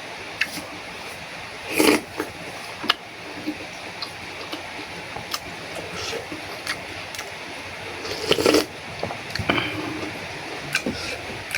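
A person eating close to the microphone: bites and chewing among scattered small clicks, with two louder bursts, about two seconds in and about eight and a half seconds in.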